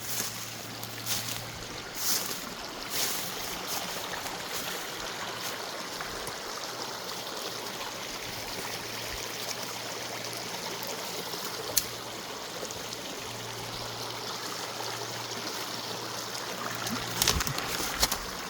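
Mountain creek running steadily, an even rush of water over rocks. A few sharp clicks and knocks break in, mostly near the start and near the end, and a faint low hum comes and goes.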